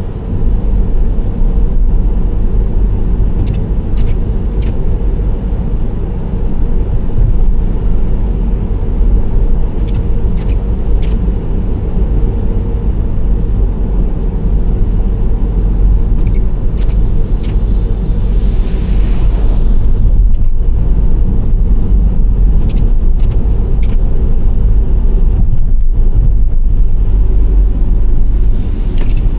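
Nissan Serena C25 minivan driving at a steady speed: a continuous low rumble of engine and tyre noise. Small groups of faint ticks come every several seconds, and a brief hiss swells and fades a little past the middle.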